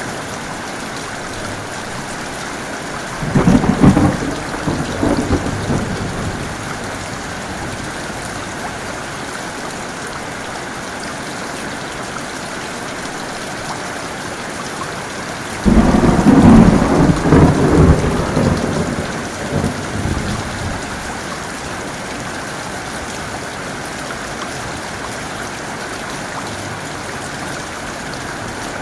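Steady heavy rain with two claps of thunder: one a few seconds in that rumbles away over a couple of seconds, and a louder, longer one a little past halfway that rolls on for about four seconds.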